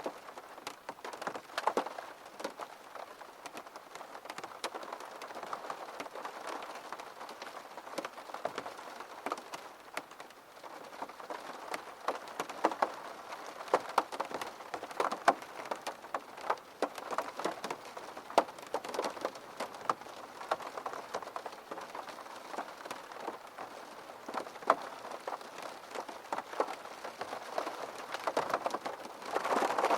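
Steady rain with many irregular sharp drop impacts pattering on a hard surface.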